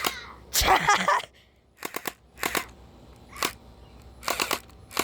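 Blaster firing in rapid bursts and single shots: a quick run of shots at the start, single shots around two and three seconds in, and another rapid burst near the end. A short yell comes about half a second to a second in.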